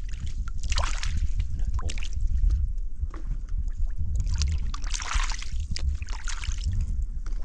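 Water sloshing and splashing, with one burst about a second in and a longer one from about four to six seconds, over a steady low rumble.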